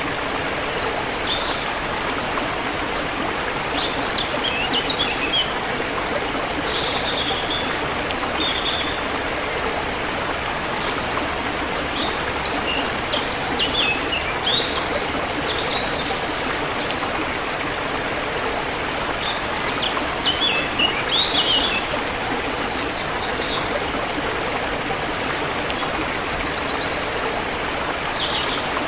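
A river flowing in a steady, even rush, with small birds chirping and warbling in short phrases over it at intervals.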